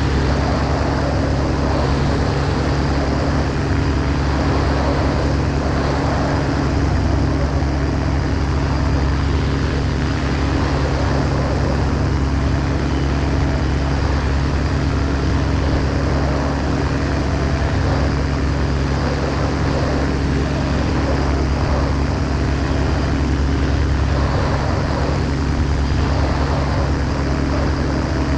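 Ultralight aircraft's piston engine and propeller running steadily at constant power, a continuous drone mixed with airflow noise.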